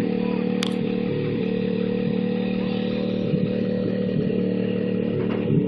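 A pickup truck's engine running steadily at high revs while the truck is stuck in a muddy pond, with one sharp click about half a second in.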